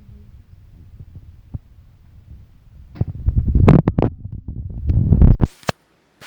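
Low throbbing rumble with a few scattered clicks. From about three seconds in comes a loud cluster of knocks and clicks, which cuts off abruptly near the end.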